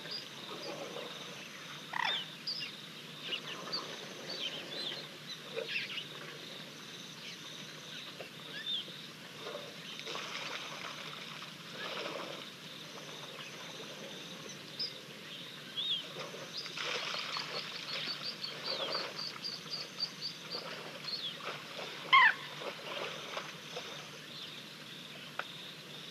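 Wild birds chirping and whistling: many short calls throughout, a quick run of rapid high notes about two-thirds of the way in, and one louder sliding whistle shortly after.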